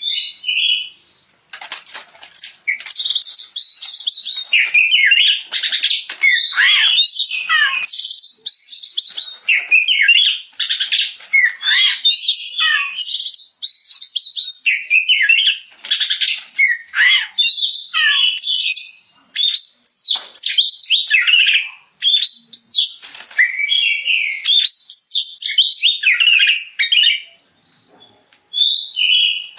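Oriental magpie-robin (kacer) singing loudly in full, open song (ngeplong). It delivers a long run of varied whistles, rapid trills and sharp, harsh notes, broken by a few short pauses.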